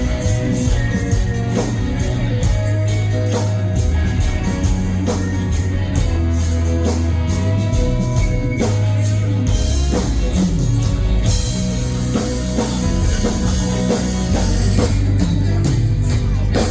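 Live rock band playing an instrumental passage with no lead vocal: a drum kit keeps a steady, even beat over bass and electric guitar.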